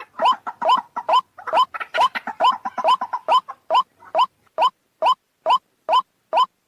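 White-breasted waterhen calling a fast run of short, rising notes. The notes are crowded and overlapping at first, then settle from about halfway into evenly spaced single notes, roughly two to three a second.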